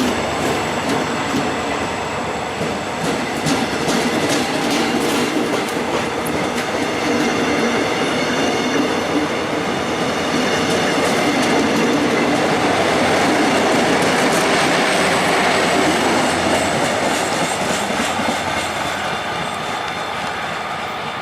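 A train running along the station tracks: wheels clattering over the rail joints, with steady high-pitched whining tones. It grows louder toward the middle and then fades.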